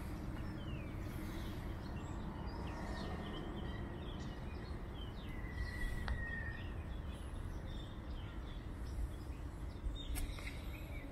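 Small birds chirping in short, scattered calls over a steady low background rumble, with one longer, slightly falling whistled note around the middle.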